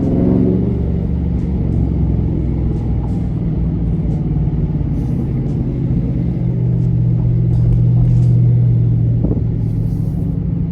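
Dodge Charger V8 exhaust with the mid-muffler deleted, heard from inside the car with the windows down, running under light load at low speed. The note drops at the start as the revs fall, then holds a steady drone that swells around eight seconds in. A brief sharp click comes about nine seconds in.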